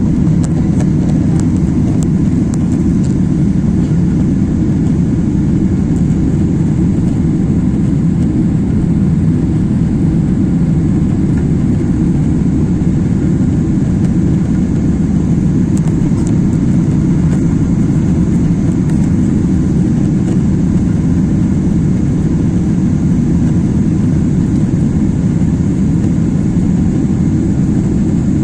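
Steady low rumble of an airliner's jet engines and airflow heard inside the cabin, holding level without rising or falling.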